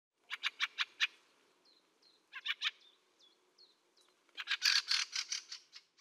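Fieldfare giving its chattering 'chack' calls in three bursts: five quick strokes, then three, then a longer, denser run near the end. A few short, thin, down-slurred notes come in the gaps between.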